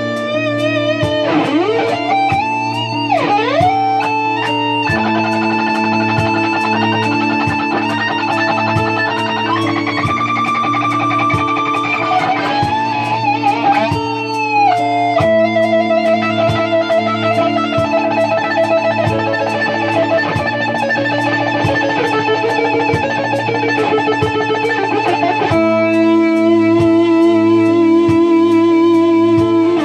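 Electric guitar played through effects, an ambient improvisation over a repeating A sus4 to B major 7 sharp 11 chord pattern in 6/8. Deep swooping pitch dives come in the first few seconds, followed by sustained, wavering lead notes over held chords.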